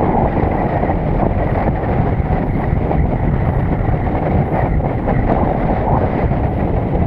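Wind buffeting the microphone during a paraglider flight in strong wind: a steady, loud rush of noise, heaviest in the low end.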